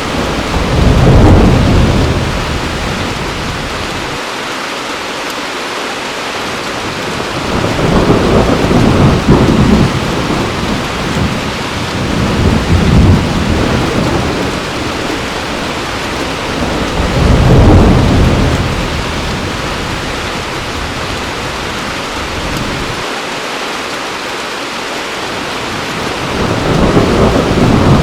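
Heavy rain pouring steadily, with rolls of thunder rumbling in low and fading again several times, the loudest about a second in and again near 18 s.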